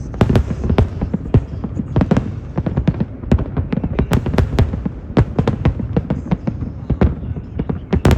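Aerial fireworks bursting in rapid, irregular succession, several reports a second, sharp cracks over a continuous low booming rumble.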